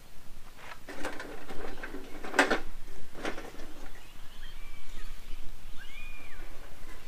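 Birds calling: three or four harsh, rough calls in the first half, then thin whistled notes gliding up and down.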